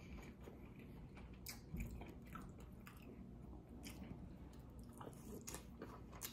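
Faint wet chewing and mouth clicks of a person eating buttery lobster tail meat, with a few soft clicks scattered through.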